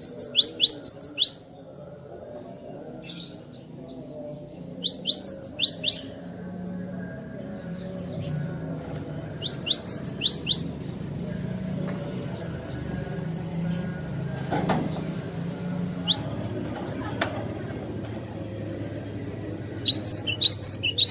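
Cinereous tit (gelatik batu) singing: short phrases of six to eight rapid, sharp descending whistles, repeated four times with pauses of several seconds between them, over a low steady background hum.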